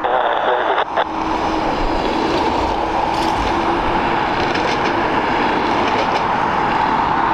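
Jet airliner engines running with a steady, loud rush of noise, a faint held tone audible through the first few seconds.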